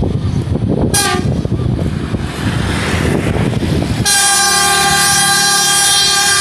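Horn of a railway track maintenance machine: a brief toot about a second in, then a long steady blast starting about four seconds in, over the low rumble of the machine running.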